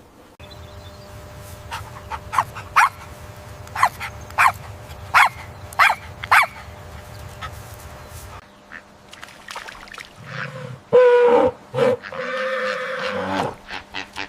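Animal calls: a run of about eight short, sharp calls, then after a short pause several longer, pitched calls.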